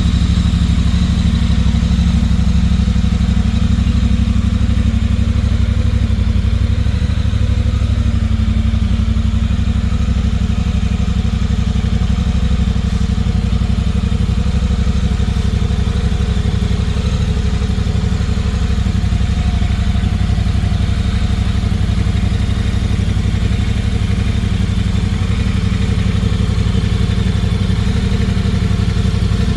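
2021 Triumph Speedmaster 1200's 1200 cc parallel-twin engine idling steadily.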